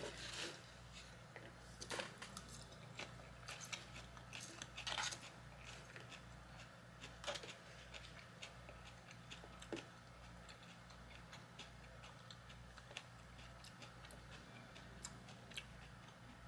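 Faint eating sounds: scattered soft clicks and taps of utensils and chewing, over a low steady hum.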